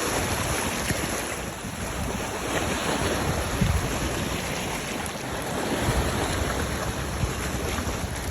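Steady rushing wind on the microphone, with irregular low buffeting thumps.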